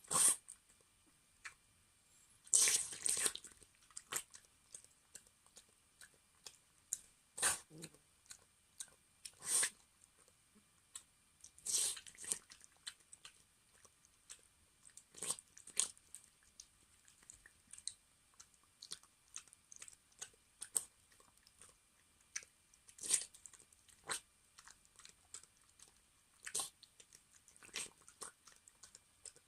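An elderly Maltese dog eating, with irregular sharp crunching and chewing sounds a second or more apart.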